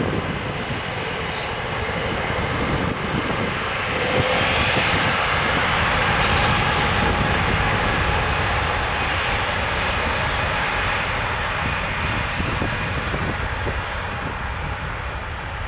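Airbus A380's four jet engines at takeoff power, a steady roar that swells about four seconds in and then slowly fades.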